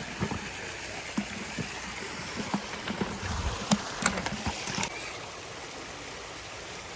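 Running water as a steady rush, with scattered light knocks and taps over it that bunch together about three to five seconds in.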